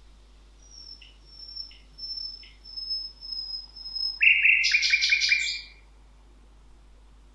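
Songbirds singing: a series of thin, high, evenly repeated notes with a few short lower chirps among them, then about four seconds in a loud, rapid run of five or six chirps that stops abruptly.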